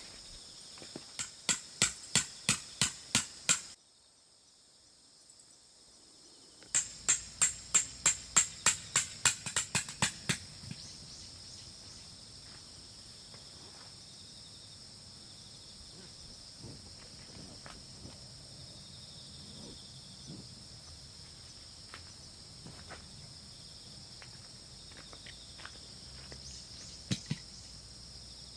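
Tent stakes being driven into the ground with a peg hammer: two runs of quick, evenly spaced strikes, about three a second, the second run ending about ten seconds in. A steady chorus of insects chirps underneath throughout.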